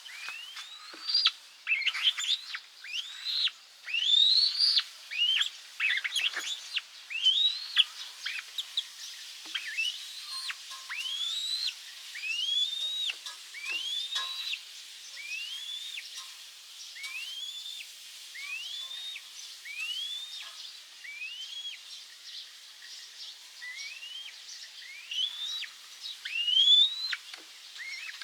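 Bird calling with a long series of rising whistled notes, each sweeping up in pitch. The notes come thick and overlapping over the first several seconds, then settle to about one a second.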